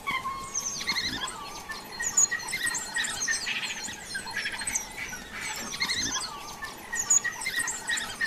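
Birds chirping: many short, high calls sliding down in pitch, repeating over and over.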